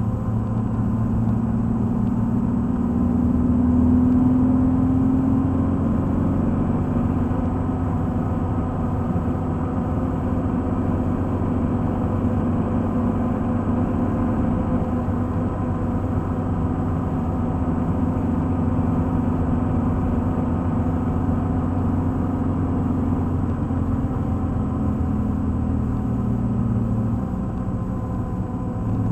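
Pontiac Fiero's engine running hard at track speed, heard from inside the cabin over steady road and tyre noise. It swells a little about four seconds in and eases slightly near the end.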